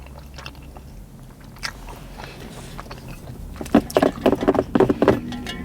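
Close-miked mouth sounds of someone chewing a sushi roll: quiet at first, then a quick run of loud, wet chewing smacks about four seconds in that lasts a second and a half.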